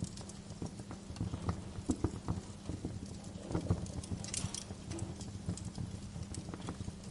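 Wood fire crackling in a fireplace, with irregular sharp pops and snaps and a denser burst of crackle about four and a half seconds in.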